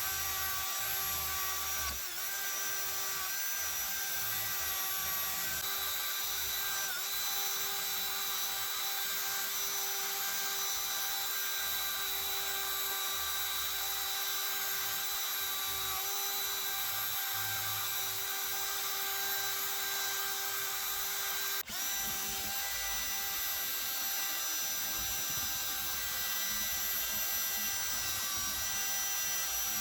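Small high-speed power tool running at one steady pitch, with a brief dip about two seconds in and a short break with a click about two-thirds of the way through.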